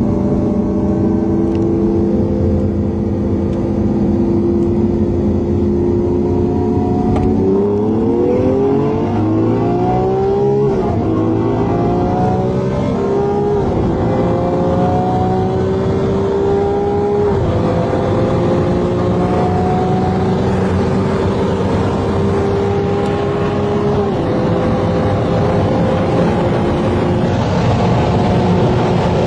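Lamborghini Aventador's V12 engine cruising steadily, then at full throttle from about seven seconds in. The revs climb through the gears, dropping at upshifts about 10, 13, 17 and 24 seconds in, with road and wind noise throughout.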